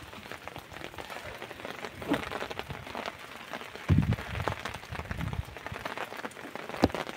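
Rain falling steadily on garden plants, with many fine drop ticks. A few low thumps break in, the strongest about four seconds in and another near the end.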